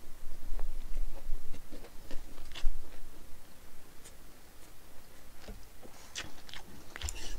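A mouthful of food being chewed close to a microphone: soft, irregular wet clicks and smacks, sparser in the middle.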